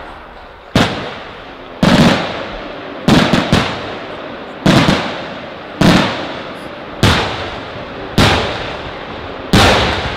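Aerial fireworks shells bursting in a display: about nine loud bangs, roughly one a second, each trailing off in a long echo.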